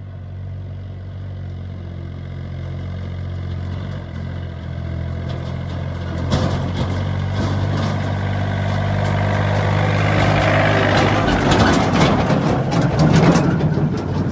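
Heavy engine running steadily, with sharp knocks and clanks from about six seconds in, getting louder and rougher toward the end.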